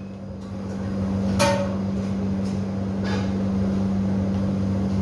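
Steady low hum, like a running kitchen appliance or exhaust fan, with one ringing clink of a utensil against a dish about a second and a half in and a softer knock about three seconds in.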